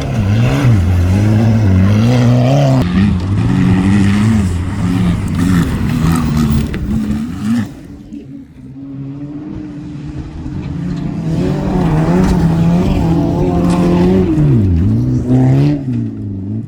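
Rallycross car engines racing, the pitch climbing and falling again and again as the drivers rev through the gears. The sound dies down about eight seconds in, then grows loud again.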